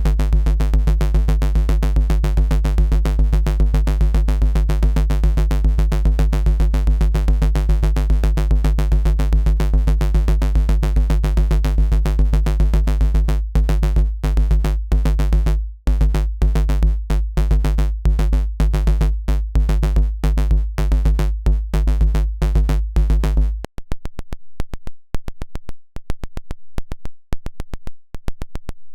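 A synthesized FM bass made in Bitwig's Polygrid plays a deep, sustained, buzzy note over a fast drum-machine pulse. About halfway through the bass starts cutting in and out in short gaps. Near the end the low bass stops, leaving only a quicker, quieter ticking pattern.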